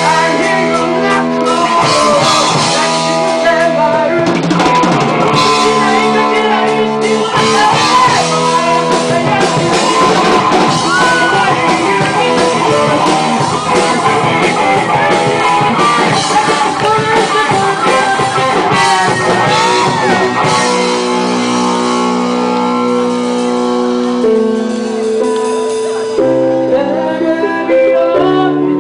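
A rock band playing a song with a singer, drums and guitar. About three-quarters of the way through, the drums drop out, leaving held chords.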